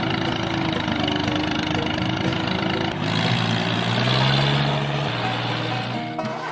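A small engine or motor running steadily; about three seconds in its pitch drops and grows stronger, then eases again near the end.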